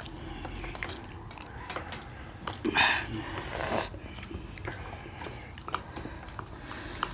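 Close-up chewing and biting of steamed momo dumplings, with scattered small clicks of chopsticks on steel plates. Two short louder bursts of eating noise come about three and nearly four seconds in.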